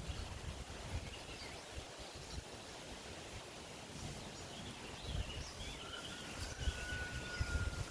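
Outdoor ambience: wind gusting on the microphone, with birds chirping in the background and one long, slightly falling whistled note near the end.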